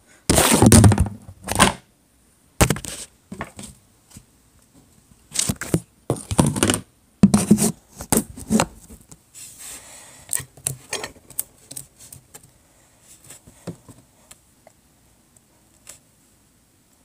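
Slime mixture of glue, activator and magic eraser cubes being stirred with a spoon in a plastic mixing container: irregular scrapes and knocks, loudest about half a second to a second in, then a run of shorter ones.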